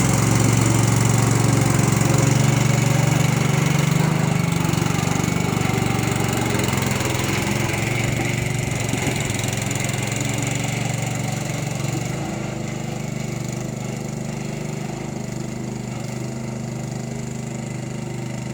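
Small engine of a roller running steadily while compacting spread asphalt millings, gradually getting quieter as it moves away, with a shift in its note about two-thirds of the way through.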